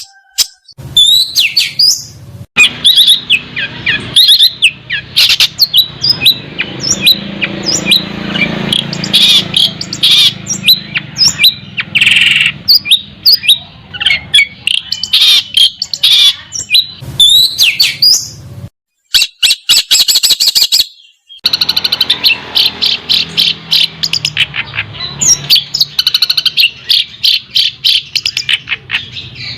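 Songbird singing a fast, loud song of sharp whistled notes, sweeps and rapid trills, broken by two short silences past the middle.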